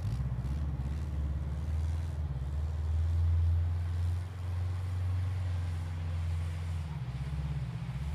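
1990 Subaru Legacy's flat-four boxer engine running at fairly steady revs as the car drives and slides through snow, a low drone that dips briefly about four seconds in.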